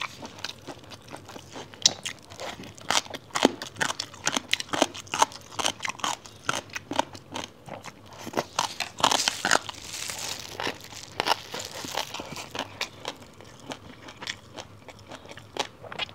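A person eating close to a clip-on microphone: many sharp, irregular crunches and chewing of crunchy spicy papaya shreds and a large burrito wrap.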